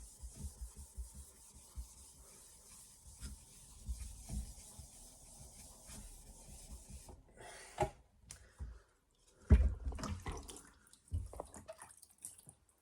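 A rust eraser scrubbing back and forth over the wet surface of a 1000-grit soaking whetstone to clean it, a steady rubbing hiss with small knocks. The scrubbing stops a little past halfway, followed by a few separate knocks and scrapes, the loudest about two-thirds of the way in.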